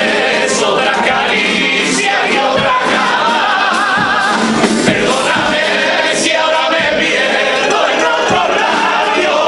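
Several voices singing a pasodoble together, over musical accompaniment.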